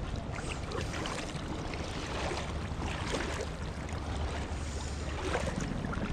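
Kayak paddles dipping and splashing in the water with irregular strokes, over a steady low wind rumble on the microphone.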